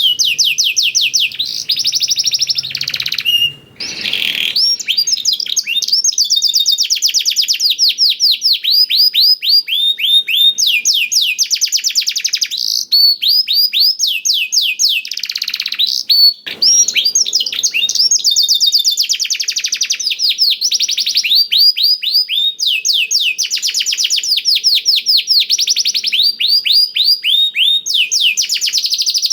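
Domestic canary singing a song learned from black-throated canaries: long runs of rapid, repeated down-slurred notes, about ten a second. The trill changes to a new phrase every second or two, with short breaks about four seconds in and just past the middle.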